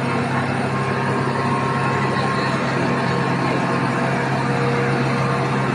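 Steady drone of aircraft engines with a constant low hum.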